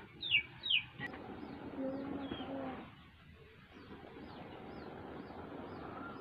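Birds calling: two sharp descending calls less than a second in, a lower held call about two seconds in, and faint high chirps later.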